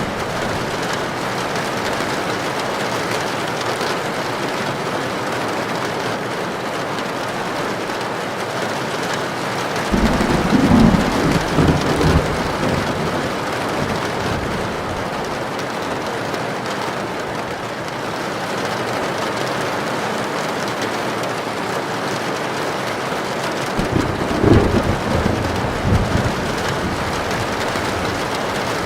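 Heavy rain falling steadily on a tin roof, with two rolls of thunder, each lasting about three seconds: one about ten seconds in and another near twenty-four seconds.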